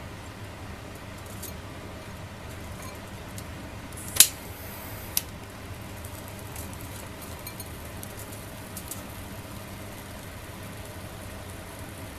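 A sharp click, then about a second of high hiss ending in a second, softer click, with faint scattered ticks after it, over a steady low background hiss.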